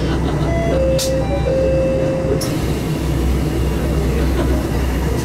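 Diesel railcar running along the line: a steady low engine drone with wheel and rail noise. About a second in, a steady tone sounds for roughly a second and a half, and two sharp clicks come through.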